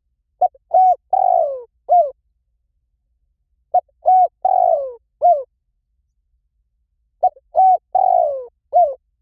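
Spotted dove cooing: three phrases of about four coos each, about three and a half seconds apart. The third coo in each phrase is longer and falls in pitch.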